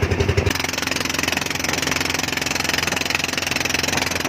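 An engine running at a steady speed. About half a second in, a throbbing engine sound gives way abruptly to a smoother, steady engine note with a hiss over it.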